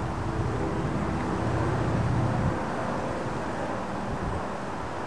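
CSX freight train's diesel locomotives heard approaching, a low rumble that swells about two seconds in and then eases back.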